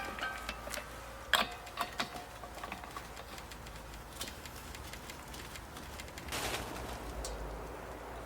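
A scattered series of sharp knocks and clicks over a steady low rumble, the loudest knock about a second and a half in, with a short burst of rushing noise near the end.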